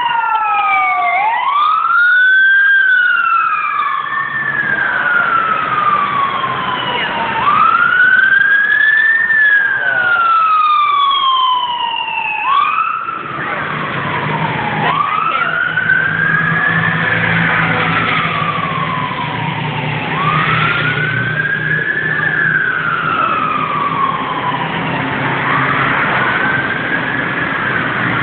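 Police vehicle sirens wailing, each sweep rising quickly and falling slowly, repeating about every five to six seconds. A heavy truck engine runs beneath from about halfway.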